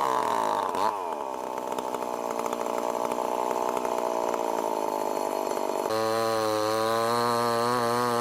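Stihl MS 881 two-stroke chainsaw running fast, its pitch dipping briefly about a second in. About six seconds in the sound switches abruptly to a lower, steadier engine note.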